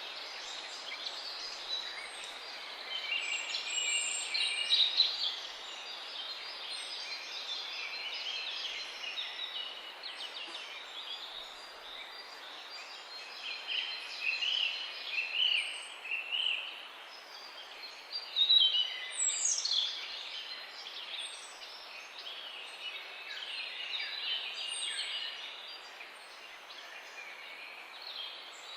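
Several songbirds singing and calling together over a steady background hiss, with overlapping high chirps and trills and louder bursts of song a few seconds in, around the middle, and again about two-thirds of the way through.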